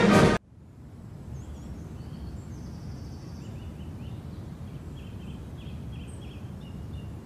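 Brass band music cuts off abruptly about half a second in, leaving outdoor ambience: a steady low background rumble with faint bird chirps and twittering.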